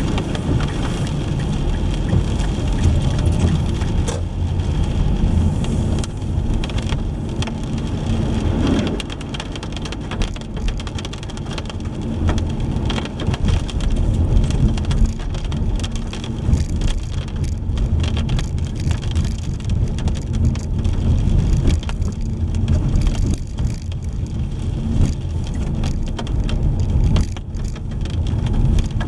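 A car driving in the rain: a steady low rumble of road and engine noise, with rain on the car and scattered short ticks of drops.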